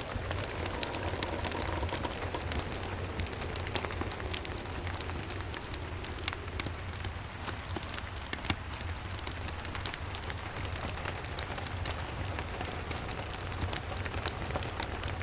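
Steady rain with scattered sharp crackles from a wood fire, over a steady low rumble.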